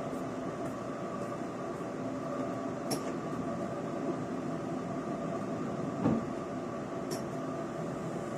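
Steady interior hum of a Taiwan Railways Chu-kuang Express passenger car, with a couple of faint clicks and a soft thump about six seconds in.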